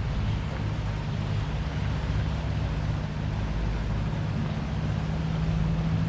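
An engine running steadily with a low, even hum, a little stronger near the end.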